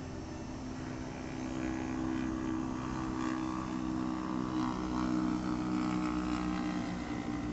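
Heavy engine running steadily with a low, even hum that grows a little louder after about a second and a half.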